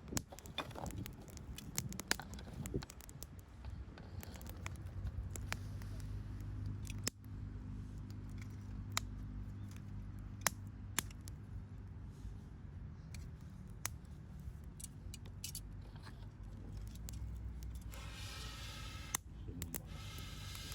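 Wood campfire crackling, with sharp pops scattered irregularly over a low steady rumble. A hiss comes in near the end and stops about two seconds later.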